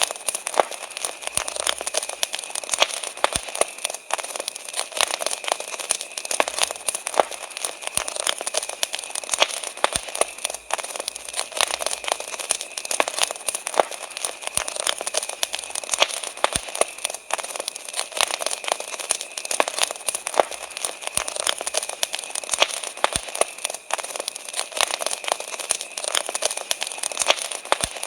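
Wood campfire crackling, a constant stream of sharp pops and snaps, with crickets chirping steadily behind it.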